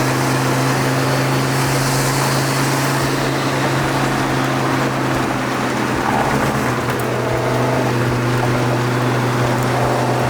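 Twin-turbo Lamborghini's engine and road noise inside the cabin at a steady cruise, a loud even drone; the drone briefly dips and changes about six seconds in.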